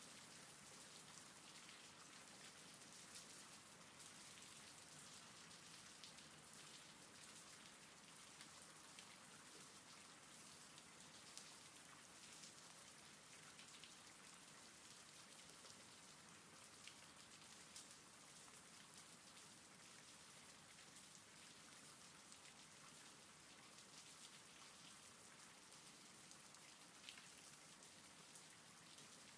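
Faint, steady recorded rain: an even hiss with scattered raindrop ticks.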